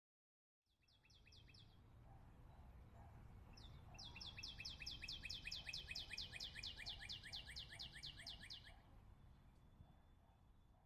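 A bird singing rapid trills of short, falling, high notes: a brief run, then a longer one of about six notes a second. A low steady rumble lies beneath.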